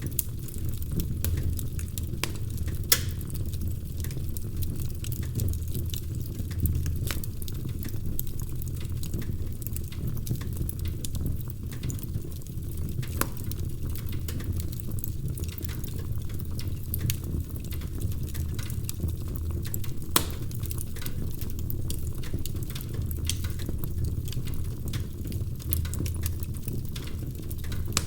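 Wood fire crackling: irregular sharp pops and snaps over a steady low rumble, with two louder pops, about three seconds in and again about twenty seconds in.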